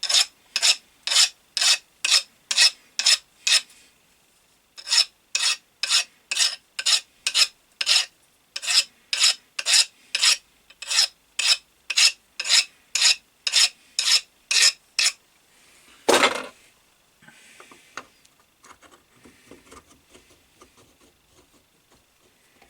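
Hand file rasping on a finger of an Atlas 10 lathe's fixed steady, filed down so it slides freely in its bore. It runs in even strokes, about three a second, with a brief pause about four seconds in and a single longer stroke about sixteen seconds in, followed by faint light handling clicks.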